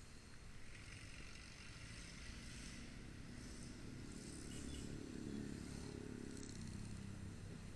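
Motorcycle engine running on the move, a low rumble under road and wind noise; the engine note grows stronger about halfway through, then eases off near the end.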